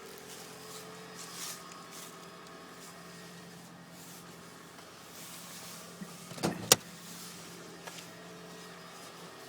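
Third-generation Toyota Prius 1.8-litre four-cylinder engine running on a cold start, a steady low hum, with a few small knocks about six seconds in and then one sharp, loud knock: the cold-start engine knock.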